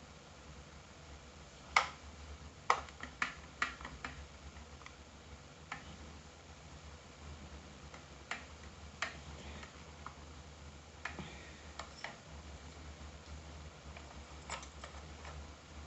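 Sharp, irregularly spaced clicks from a Sky-Watcher AZ GTi telescope mount's RA axis, heard over a faint steady low hum. The clicking is the mount's fault that goes with a problem at the RA clutch knob.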